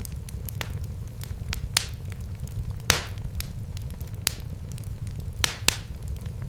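Wood fire crackling in a fireplace: a steady low rumble under irregular sharp pops and snaps, the loudest about three seconds in.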